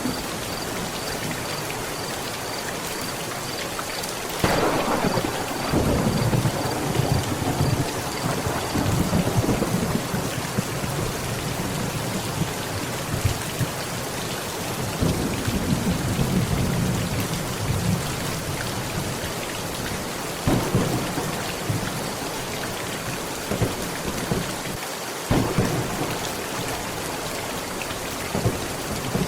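Steady heavy rain drumming on a tent. About four seconds in, a sharp thunderclap breaks into a long rolling rumble. Another rumble follows mid-way, and a few shorter rolls of thunder come later.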